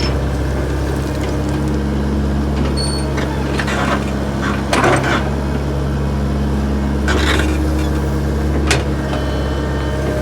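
Backhoe engine running steadily at a constant low hum, with a few short harsh bursts of noise about four, seven and nine seconds in.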